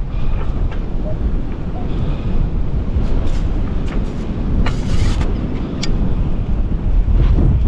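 Strong wind buffeting the microphone, a steady low rumble, with a few brief scraping noises partway through.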